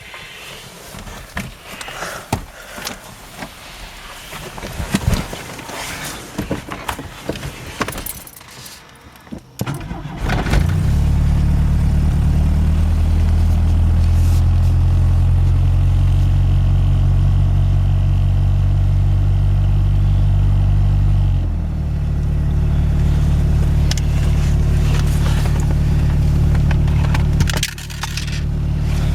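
Scattered clicks and handling noises, then about a third of the way in the 1991 Chevy S10's 2.5-litre four-cylinder engine comes in loud and runs at a steady idle after a cold start, dipping briefly twice.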